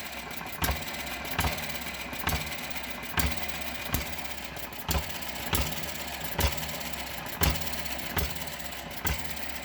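Eachine ET7 miniature petrol stationary engine running very slowly. It fires with a sharp knock a little more than once a second, over a steady low running sound, and the spacing of the firing strokes shows how slow it is.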